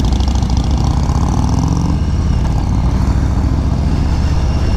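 Harley-Davidson V-twin motorcycle engine running steadily while riding: a continuous low rumble with fast, even firing pulses.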